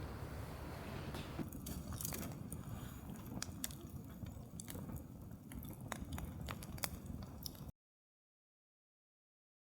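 Scattered sharp clicks and crackles over a low rumble, cutting off abruptly to silence near the end.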